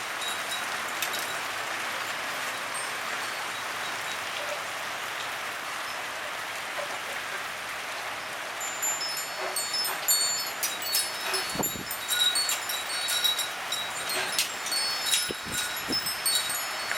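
Steady hiss of wind and heavy rain. From about halfway through, a wind chime jangles in the gusts, ringing in quick clusters of high notes, with a few dull knocks among them.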